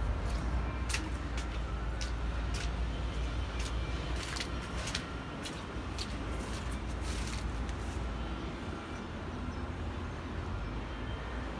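Truck engine running steadily with a low rumble, and scattered sharp clicks over it.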